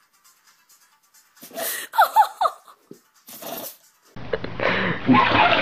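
A dog sneezing: a quick cluster of sharp, hissy sneezes with squeaky high notes about two seconds in, then one more sneeze about a second later.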